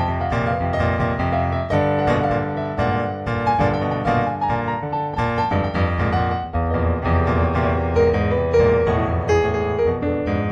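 Background piano music: a steady flow of melodic piano notes over sustained lower chords.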